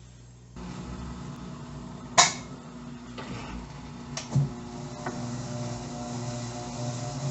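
Electrolux LTE09 top-load washing machine running after its drain: a steady motor hum sets in about half a second in and grows a little louder toward the end, with a sharp click about two seconds in and a second knock about two seconds later.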